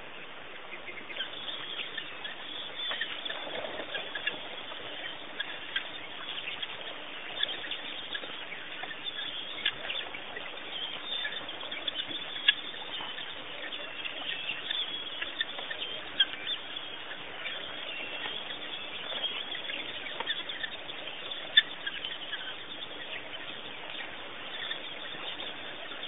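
Small birds chirping and chattering busily, with a few sharper clicks standing out, over a faint steady hum.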